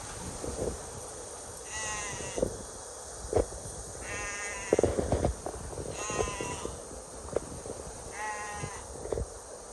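Four wavering bleats from a farm animal, evenly spaced about two seconds apart, with a few short knocks and thuds in between.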